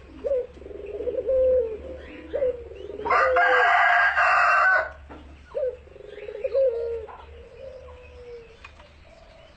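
Barbary dove (puter) cooing over and over in its low rolling "kuk-gerrr-kwok" bowing coo, about one coo a second. About three seconds in, a louder and harsher call from another bird lasts nearly two seconds.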